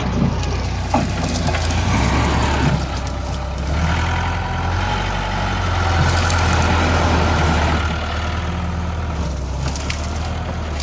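Diesel engine of a JCB 3DX backhoe loader running under work, with a few knocks near the start. A steady higher whine joins in from about four seconds to eight seconds, while the engine is at its loudest.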